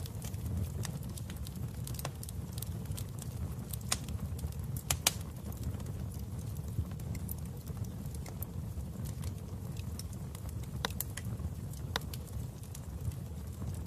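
Wood fire in a fireplace crackling: irregular sharp pops and snaps over a steady low rumble of the flames, with a couple of louder pops about five seconds in.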